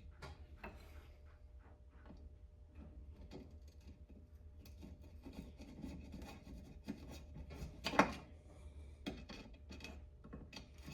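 Small clicks and rubbing as the screw with its washer is fitted back into the Homelite XL2 chainsaw's recoil starter, with one sharper click about eight seconds in. A steady low hum runs underneath.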